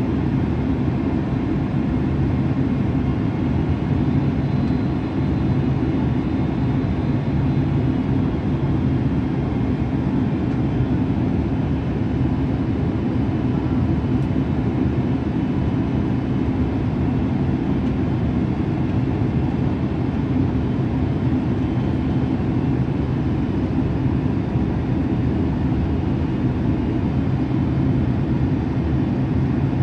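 Steady rumble of a jet airliner's engines and airflow heard from inside the passenger cabin.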